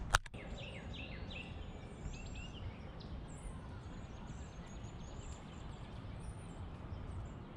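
Small songbirds chirping: a run of short falling chirps in the first couple of seconds, then thin high calls, over a steady low outdoor rumble. A single sharp click sounds just after the start.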